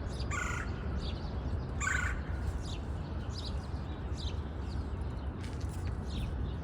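Wild birds calling: two harsh calls in the first two seconds, then many quick high chirps, over a steady low rumble of background noise.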